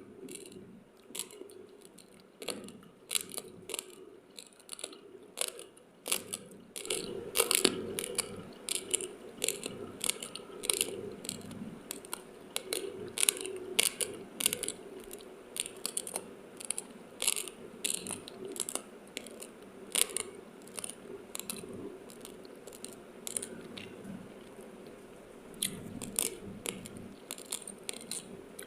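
Raw, uncooked sticky rice grains being chewed close to the microphone: a dense, irregular run of sharp crunching cracks as the teeth break the dry grains, growing louder and busier a few seconds in.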